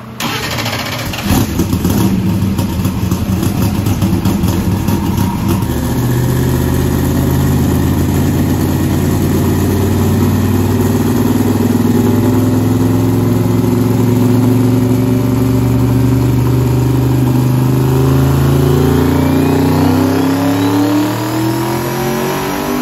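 Twin-turbo LSX V8 in a C5 Corvette drag car making a full-throttle pull on a chassis dyno. It runs rough and crackly for the first few seconds, then the revs climb steadily for about fifteen seconds under boost before dropping away near the end.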